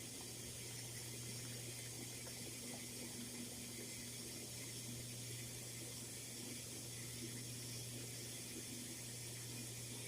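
Water running steadily from a tap into a large bottle as it fills.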